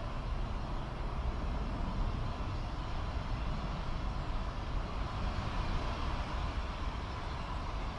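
Jet aircraft engines running: a steady low rumble with a hiss over it, swelling slightly about five to six seconds in.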